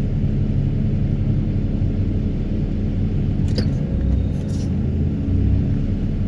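Excavator engine and hydraulics running with a steady low rumble, with a few brief high-pitched clicks or squeaks about three and a half to four and a half seconds in.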